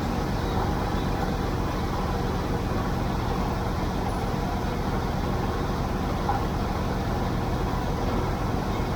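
Tractor engine running at a steady speed, with an even, rapid firing beat and no change in pitch.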